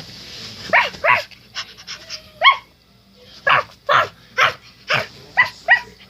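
A small dog barking: about nine short, high yaps in an uneven string.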